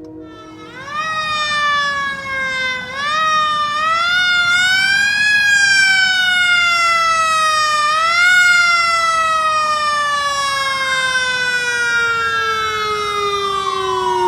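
Emergency vehicle siren wailing as it passes, its pitch climbing and falling with two sudden upward jumps, then sliding down in one long fall. A second siren joins near the end.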